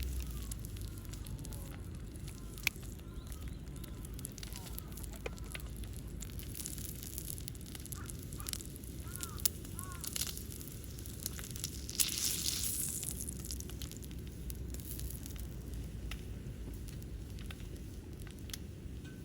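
Wood fire crackling in a small folding steel fire stand, with sharp pops now and then and a brief hissing flare about twelve seconds in.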